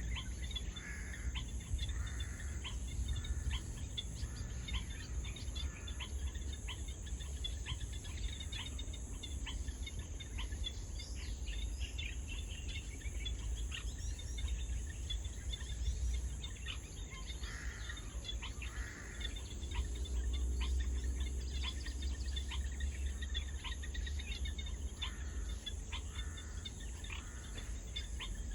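Evening woodland ambience: a steady high-pitched insect trill with a second, pulsing insect call above it, scattered short bird chirps, and a constant low rumble underneath.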